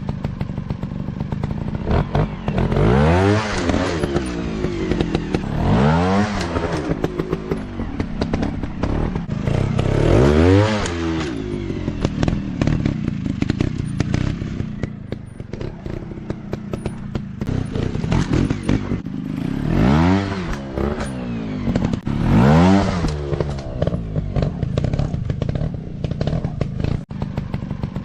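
Dirt bike engines running, revved up and back down several times, with steady running noise between the revs.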